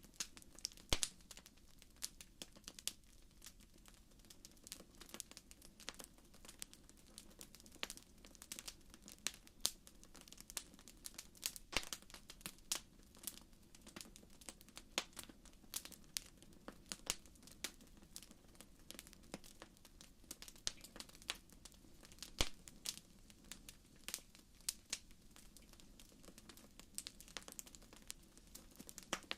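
Wood fire crackling in a fireplace: frequent small pops and snaps at irregular intervals, a few sharper ones standing out, over a faint steady low rumble.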